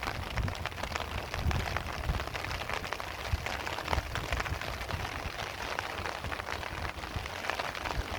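Light rain falling: many small drops hit surfaces as a dense, irregular spatter of ticks, over a steady low rumble.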